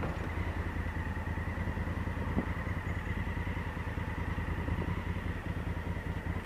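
Honda Africa Twin CRF1000L's parallel-twin engine running steadily at low revs, with no revving.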